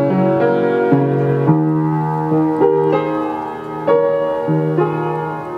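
Piano playing an instrumental passage of the song, sustained chords and notes changing about every half second, with no singing.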